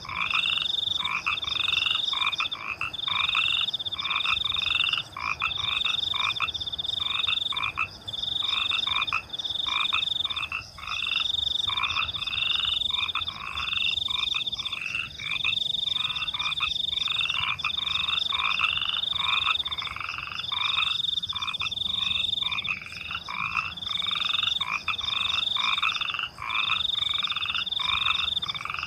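A chorus of frogs croaking in a fast, even rhythm, with crickets trilling steadily at a higher pitch.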